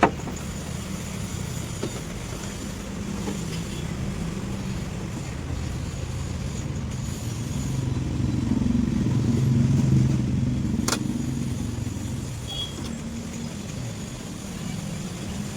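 A car engine running, swelling louder for a couple of seconds about two-thirds of the way through and then easing back. There is a sharp click at the very start and another about eleven seconds in.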